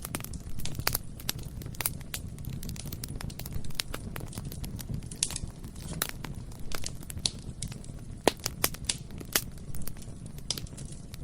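Bonfire burning with a steady low rumble of flame, crackling and snapping irregularly. One pop about eight seconds in is louder than the rest.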